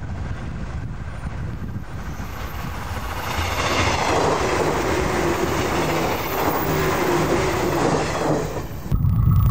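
A 485-series limited express electric train passing at speed close by, wheels on the rails. Its noise, with a steady hum in it, builds about three seconds in and eases as the last cars go by. Near the end the sound cuts abruptly to a louder low rumble.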